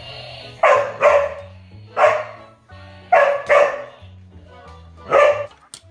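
A dog barking six times, in two quick pairs and two single barks, over background music with steady low tones.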